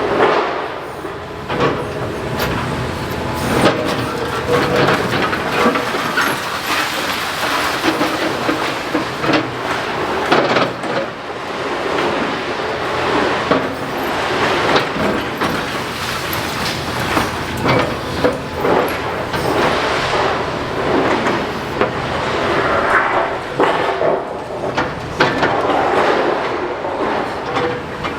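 Demolition excavator at work on a building: machinery running under a constant clatter and crunch of breaking masonry and falling debris, with frequent sharp knocks.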